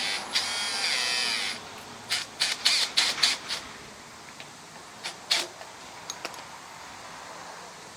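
A small power tool, drill-type, runs for about a second and a half with a slight rise in pitch, as during reassembly with fasteners. Then comes a quick series of sharp clicks and knocks, and a few single clicks follow.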